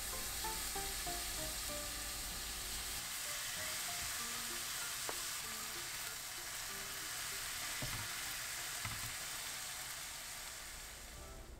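Food sizzling steadily as it fries in a hot pan, with a couple of light knocks of a utensil against the pan.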